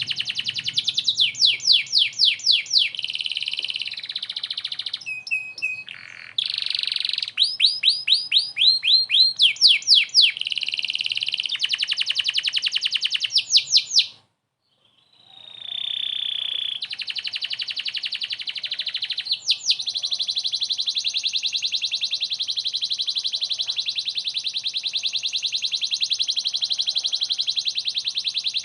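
Domestic canary singing a varied song of rapid trills and chirps, with a short break about halfway through, then one long, fast, even trill that runs on toward the end.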